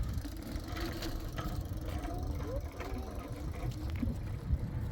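Wind buffeting the microphone: a steady low rumble, with a few faint clicks over it.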